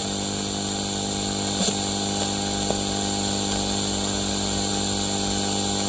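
A small electric motor running steadily, a constant hum at a fixed pitch, with a couple of faint clicks.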